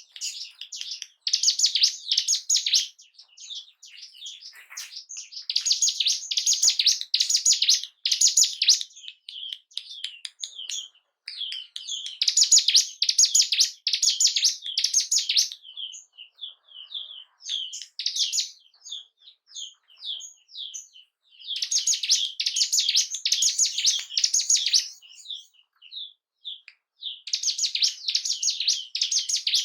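Ciblek gunung, a prinia, singing: loud, rapid high-pitched chattering phrases of a few seconds each, about five in all, with softer scattered chirps between them.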